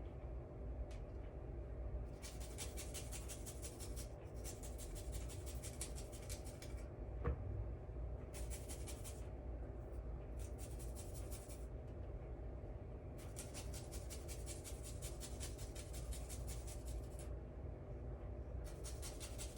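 Garlic and ginger being grated on a hand grater: stretches of rapid, fine scraping strokes with short pauses between them, and a single knock about seven seconds in.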